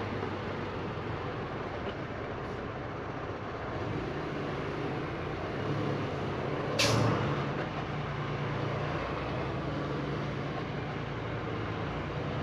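Semi-truck running down the road, heard from inside the cab: a steady engine drone under road noise. About seven seconds in, a short, sharp hiss of air from the truck's air brakes.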